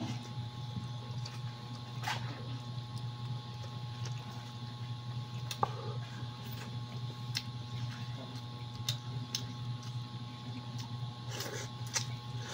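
Eating sounds from someone chewing rice and chicken by hand: scattered soft clicks of chewing and lip smacks over a steady low hum.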